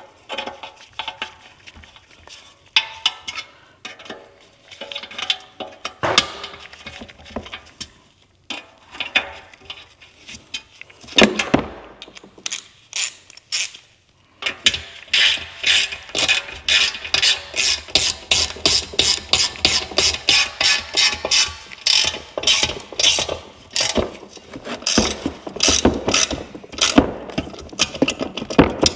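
Hand ratchet clicking in quick, even strokes of about three to four clicks a second from about halfway in, running in the bolts as the rear hub's dust shield goes back on. Before that, scattered metal clinks and knocks of parts and tools being handled.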